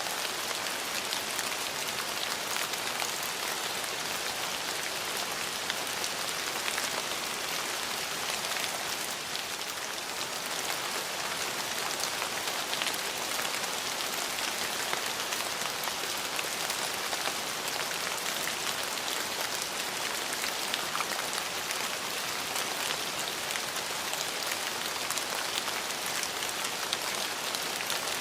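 Steady rain falling, an even hiss with many fine drop ticks on hard surfaces.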